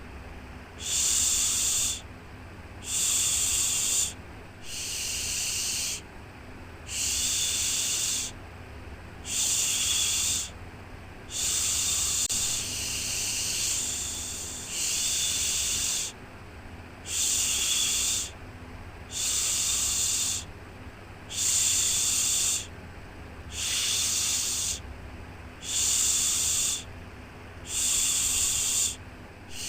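A voice shushing "shhh" over and over to lull a baby, one long hiss about every two seconds, over a steady low hum.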